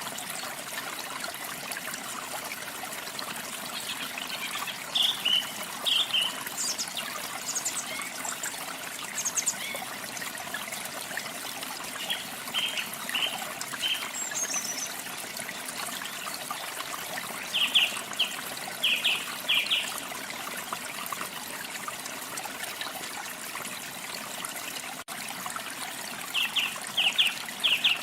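Steady rush of falling, trickling water, with small birds singing short bursts of high chirps now and then over it.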